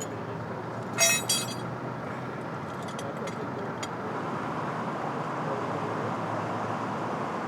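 Steady road-vehicle and traffic noise, swelling slightly through the middle, with two sharp clicks about a second in.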